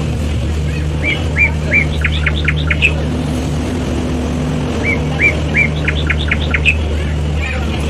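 A songbird singing the same phrase twice, three rising notes followed by a quick run of sharp notes, over the steady low hum of the slow-moving train.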